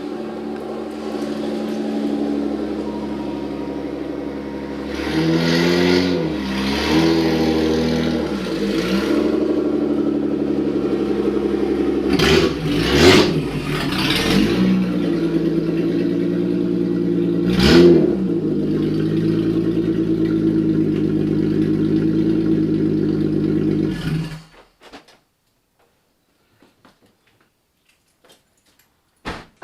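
V6 engine of a Toyota MR2 running loud with no catalytic converter or catback fitted, so the exhaust is open after the Y-pipe. It rises and falls in pitch several times as it is revved and driven, then shuts off suddenly about 24 seconds in.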